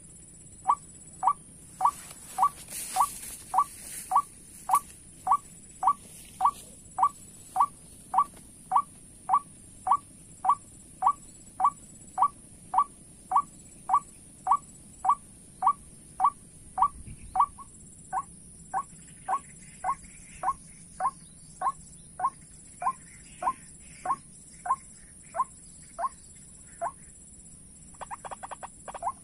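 White-breasted waterhen 'ruak' call played as a lure, one short rising note repeated steadily about twice a second. The notes drop a little in loudness about two-thirds through and break into a quicker run near the end.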